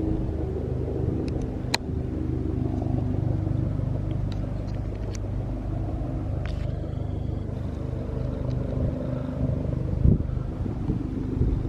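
Helicopter running, a steady low drone with several pitched tones and a few faint clicks.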